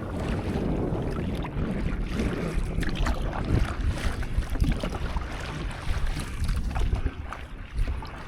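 Wind buffeting the microphone with a low rumble, over water sloshing and splashing with small scattered drips and slaps around a stand-up paddleboard at sea.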